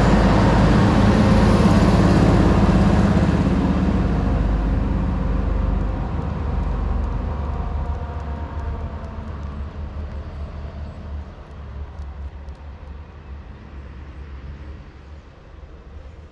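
Passenger train passing close and pulling away: a loud rumble of engine and wheels on rail that fades steadily over several seconds as the train leaves.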